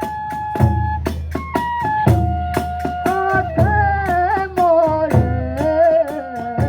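Kagura accompaniment: a bamboo flute playing a wavering, sliding melody over regular drum beats and sharp hand-cymbal strikes.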